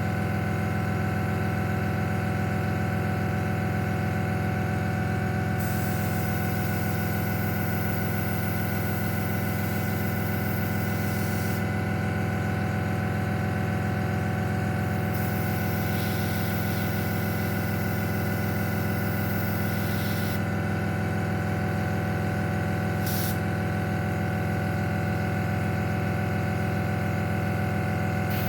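Airbrush compressor running with a steady hum, while a KK Moon airbrush hisses in spells of several seconds as its trigger is pulled to spray paint, with one short burst in between.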